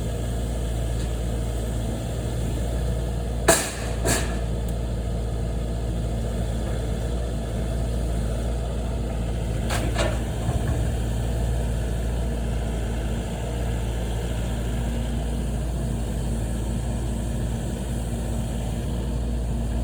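An engine running steadily, a low even hum, with a few short sharp knocks: two close together a few seconds in and one near the middle.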